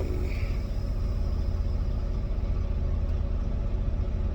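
Semi-truck diesel engine running with a steady low rumble.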